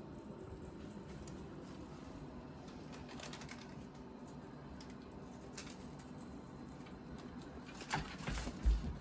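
Cats at play: faint, scattered light taps and rustles, with a few louder thumps and taps near the end.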